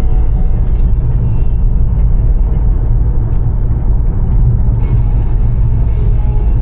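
Car driving: a steady, loud low rumble of road and engine noise with a few faint ticks.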